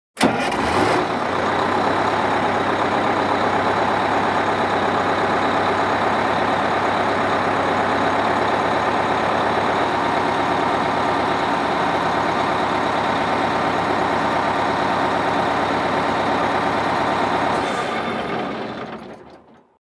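School bus engine running steadily. It comes in abruptly and fades out near the end.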